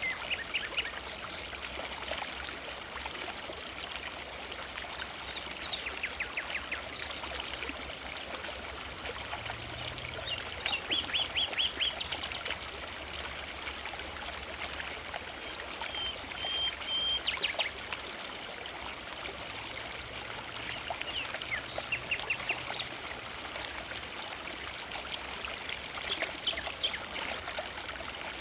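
A forest river flowing steadily, with a bird calling every few seconds in quick runs of short chirps.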